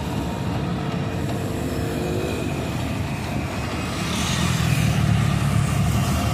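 Babaranjang long coal train's wagons rolling past with a steady rumble, growing louder with a rush of wheel and rail noise about four seconds in.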